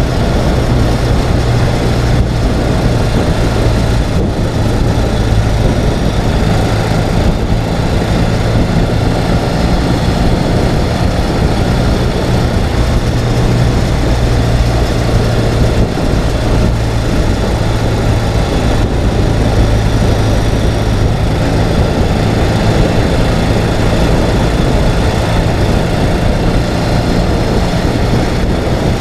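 Ural sidecar motorcycle's air-cooled boxer-twin engine running at a steady cruising pace, its note holding even, over a constant rush of wind and road noise.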